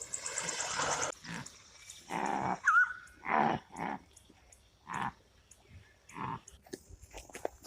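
A dog growling in short, irregular bursts, with a brief high chirp about three seconds in.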